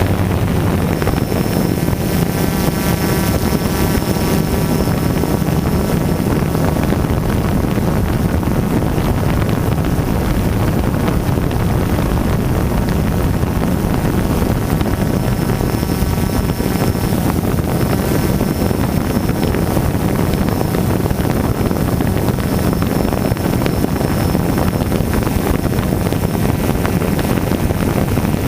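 DJI Phantom quadcopter's motors and propellers running steadily in flight, heard from a GoPro mounted on the drone, with wind buffeting the microphone. A thin high whine comes and goes above the rotor noise.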